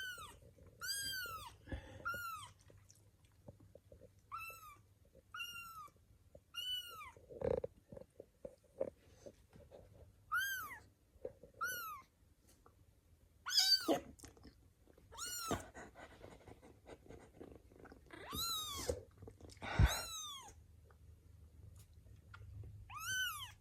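Kittens mewing: over a dozen short, high-pitched mews at irregular intervals, each rising and then falling in pitch. A few knocks and rustles come between them.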